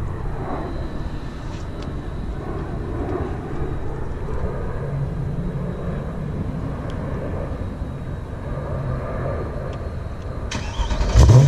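Low, steady engine rumble. About ten and a half seconds in, a Mercedes-AMG V8 with headers and straight pipes fires up with a rising surge and settles into a loud, deep idle.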